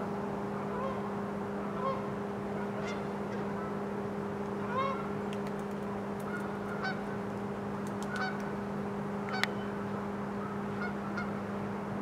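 Scattered short honking bird calls, one every second or two, over a steady low hum, with one sharp click about nine seconds in.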